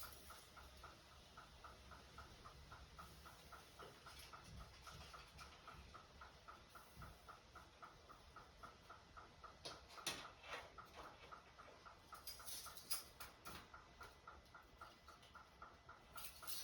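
Faint, even ticking, about three to four ticks a second, with a few louder clicks about ten and thirteen seconds in.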